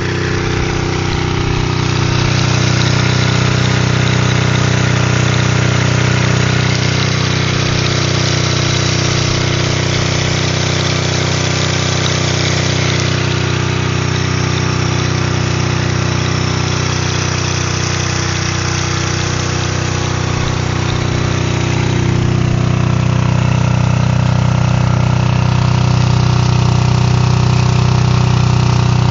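1971 Honda CB350's air-cooled parallel-twin engine idling steadily after a kickstart, a little louder about two seconds in and again around twenty-two seconds in.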